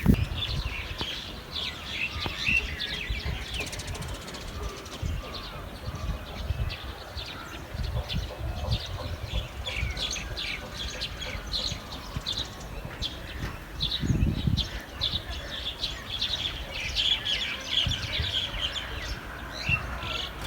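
Birds chirping: many short, high chirps in quick succession, with occasional low thumps and bumps.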